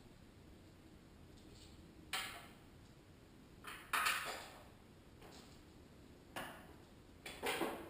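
Metal tools and parts being handled: about five sharp metallic clinks and clanks, each ringing briefly, the loudest about four seconds in.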